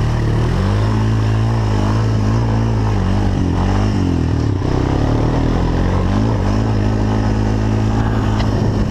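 A four-wheeler (ATV) engine running under way. Its pitch holds steady, dips in the middle and climbs again near the end as the throttle changes.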